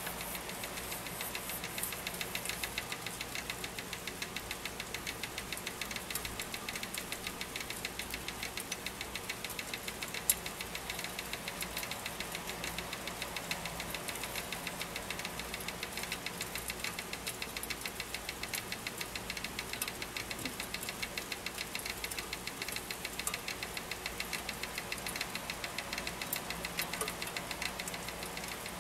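Rain drumming on leaves: a steady, dense patter of rapid drop ticks, with one sharper, louder drop strike about ten seconds in.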